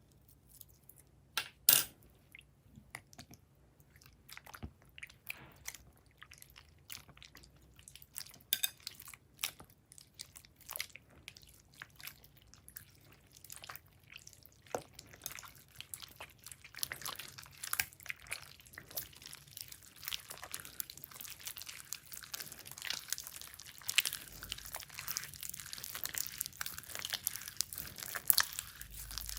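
Clear slime being worked by hand, giving off sticky clicks, pops and crackles. They come one at a time at first and grow into a steady crackling over the last third.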